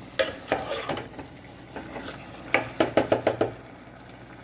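Metal spoon stirring the chicken curry in the cooking pot. There are a few clinks in the first second, then a quick run of about six sharp knocks against the pot a little past halfway.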